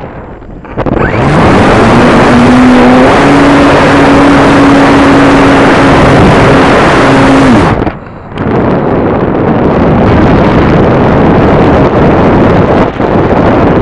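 RC model airplane engine winding up to a steady high-pitched whine under heavy wind rush. The whine stops suddenly just under 8 seconds in, leaving loud wind noise.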